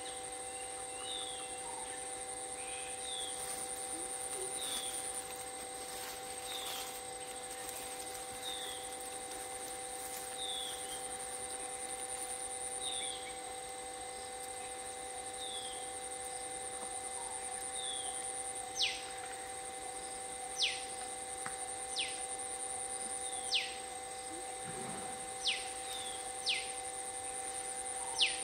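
Wild birds calling: a short chirp repeats about once a second, then, about two-thirds of the way in, sharp falling whistles start, one every second or two. Under them runs a steady high insect-like drone and a low hum.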